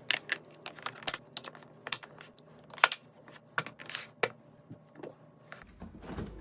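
Irregular light clinks and taps of kitchenware, about twenty sharp clicks spread unevenly, like utensils knocking against dishes and containers.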